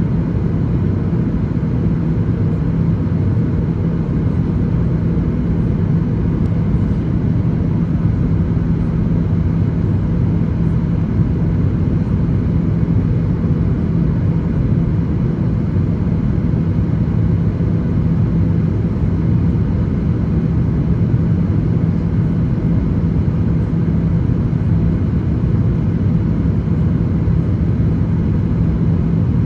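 Boeing 737-800 cabin noise: its CFM56-7B jet engines and airflow make a steady, loud drone with a low hum, unchanging throughout.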